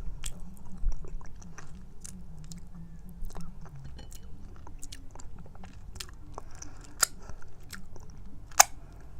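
Close-up chewing of raw honeycomb and its wax: sticky, wet mouth sounds with many sharp, irregular smacking clicks, the sharpest near the end.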